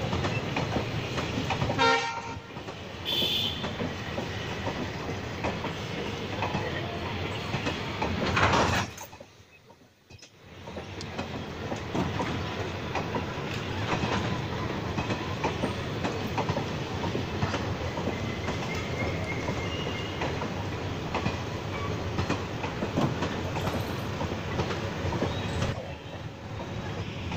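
Indian Railways passenger coaches rolling past at steady speed, their wheels clattering over the rail joints. The sound drops away abruptly about nine seconds in and returns a second or two later.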